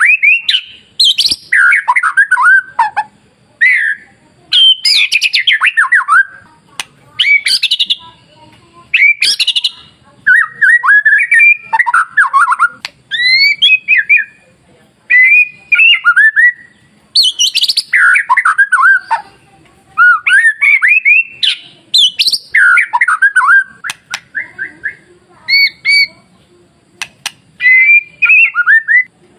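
White-rumped shama (murai batu) singing: loud, varied phrases of quick rising and falling whistled notes, coming in bursts a second or two long with short pauses between them.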